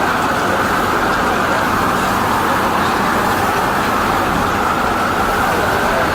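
Loud, steady street noise with no distinct events.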